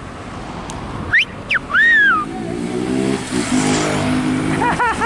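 Sharp whistles, two quick rising ones about a second in and then a longer one, followed by a motorcycle engine revving up, its pitch rising steadily for about three seconds amid street traffic noise.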